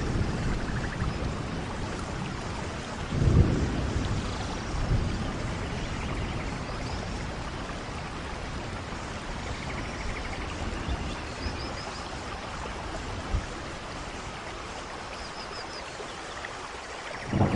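Steady rain falling, with rolls of thunder: a low rumble swells about three seconds in, a few fainter ones follow, and another rumble builds at the very end.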